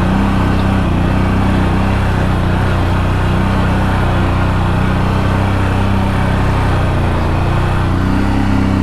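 CFMOTO CFORCE 1000 Overland's V-twin engine running steadily under load in low gear as the ATV crawls over big rocks.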